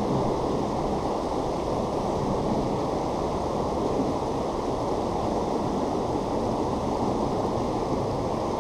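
Steady rush of water pouring over the river's waterfalls, an even, unbroken noise.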